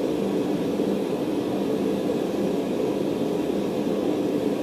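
Forge running with a steady, even roar, heating the steel bar between hammering sessions.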